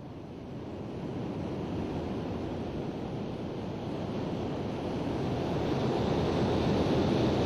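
Steady rushing noise of an aircraft in flight, heard from on board, growing gradually louder.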